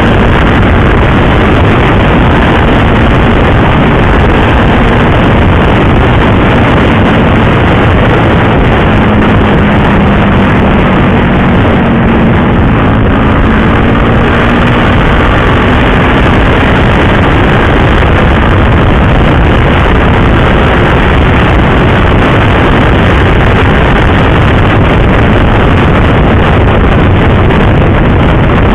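Motorcycle riding at speed: loud, steady wind roar on the microphone with the engine's drone underneath, its pitch rising and falling slightly about a third of the way through.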